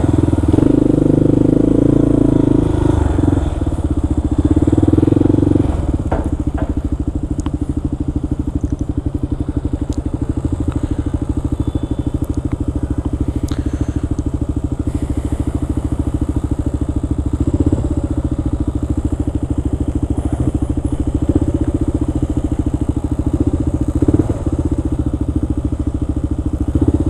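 Kawasaki KLR650's single-cylinder engine running while riding, louder for the first six seconds or so, then running steadily with an even pulsing beat.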